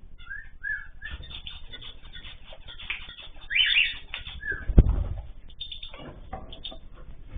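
Small caged ornamental birds chirping in short calls, with a bright flurry of calls a little past halfway, amid fluttering wings. A single sharp knock about five seconds in is the loudest sound.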